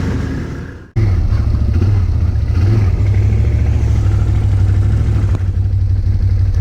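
A motor vehicle engine running steadily at a low, even pitch. It fades out just before a second in, cuts back in abruptly, and drops away near the end.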